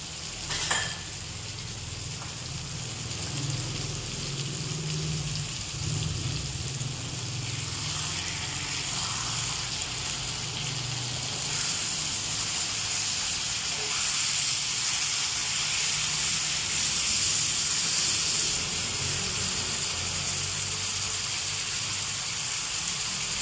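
Chicken pieces sizzling in hot fat in a cast-iron skillet, a steady hiss that grows louder over a low hum. There is a sharp clack about a second in, and a few lighter knocks as the pieces are turned with tongs.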